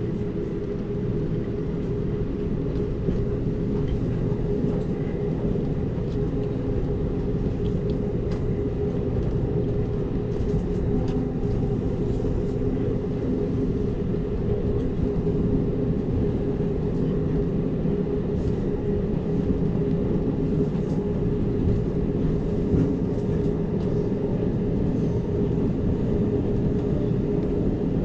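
Amtrak Cascades passenger train running at speed: a steady low rumble of wheels on rail with a constant hum.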